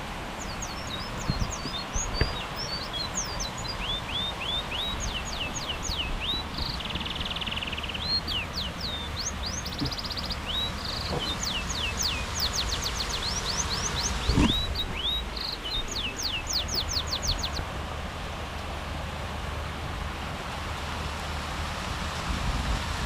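A songbird singing over steady rain: quick high down-slurred whistles in runs, with a couple of short buzzy trills. The singing stops about three-quarters of the way through, leaving the rain, with a few soft thuds.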